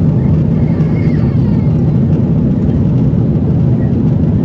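Steady, loud cabin noise inside a Boeing 777-300ER airliner: an even, low roar of engines and airflow.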